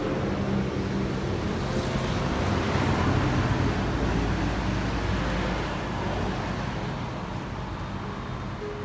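Hitachi 255 mm aluminium-cutting miter saw (100 V) running through a test cut in wood, a steady motor and blade noise that eases off over the last few seconds.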